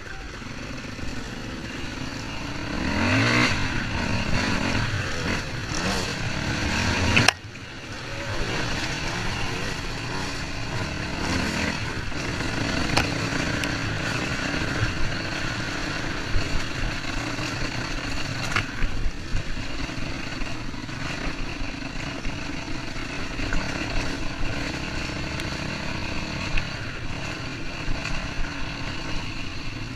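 Two-stroke 125 cc motocross bike engine (a Honda CR125) running during its break-in. It revs up a few seconds in, climbs again and cuts off sharply about seven seconds in, then runs on at fairly steady revs.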